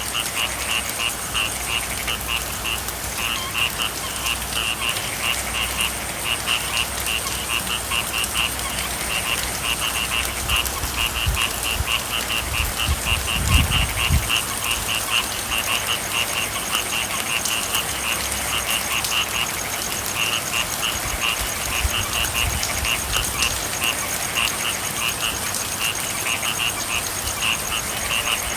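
Frogs calling in a fast, even series of short croaks, about two to three a second, over the steady hiss of rain. A brief low rumble comes about halfway through.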